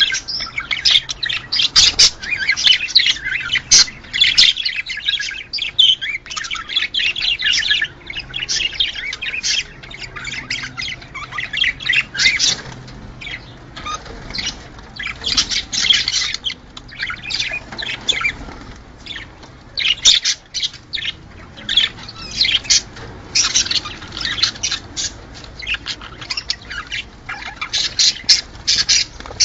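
A flock of budgerigars chattering, a dense run of overlapping chirps, warbles and squawks with a few brief lulls.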